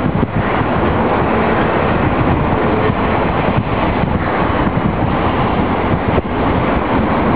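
Union Pacific double-stack container train's loaded well cars rolling past: a steady, loud rumble of steel wheels on the rails.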